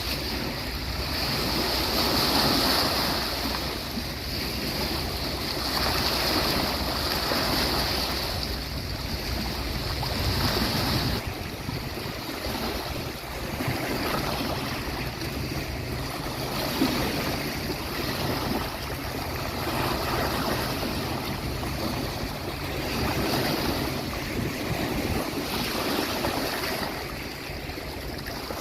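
Sea waves breaking on a beach and washing back, the surf swelling and easing every few seconds.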